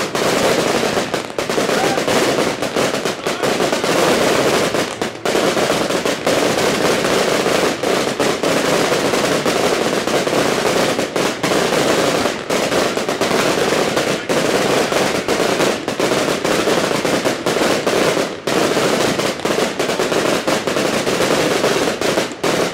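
Fireworks finale: many aerial shells and other fireworks going off at once, making a dense, unbroken barrage of bangs and crackling.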